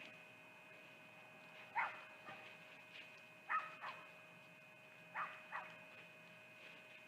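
An animal barking at a distance, giving short barks mostly in pairs: one near the start, then a pair about every second and a half.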